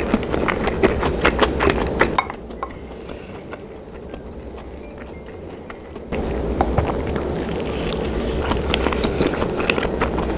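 Close-miked chewing of a mouthful of rice mixed with tteokbokki sauce: many small, irregular wet mouth clicks. It drops quieter for about four seconds in the middle, then picks up again.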